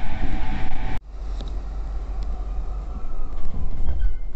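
E231-series electric commuter train running, heard from on board: a loud low rumble with steady tones that drops abruptly about a second in to a quieter rumble, with a faint whine that rises and falls in pitch.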